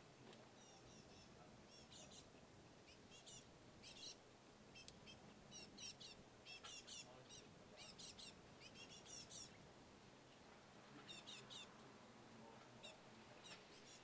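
Wild birds chirping faintly in quick runs of short, high chirps. The chirps pause for about a second and a half near the ten-second mark, then start again.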